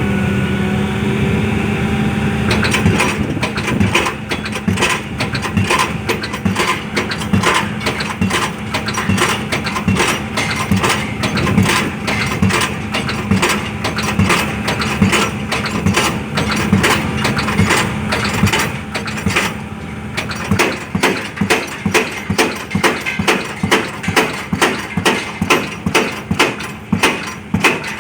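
Pile-driving hammer striking a pile in a repeated rhythm over a running engine. The blows start a few seconds in and become sharp and evenly spaced, about two a second, near the end.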